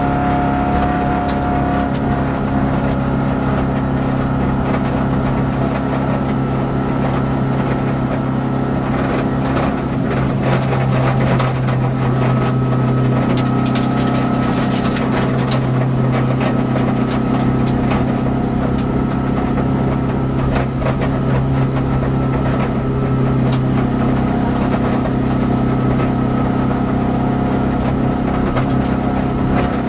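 Peugeot rally car engine heard from inside the cabin, running at steady, moderate revs with almost no change in pitch, plus road and tyre noise. The engine has lost power, with one cylinder down, which forced the crew to retire on this stage.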